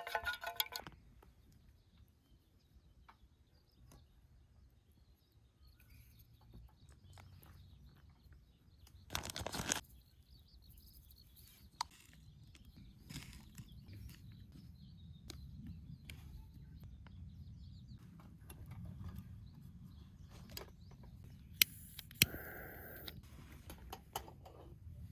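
Outdoor ambience: a low steady rumble with faint bird chirps, a brief loud noise about nine seconds in, and a few sharp clicks, two of them loud near the end.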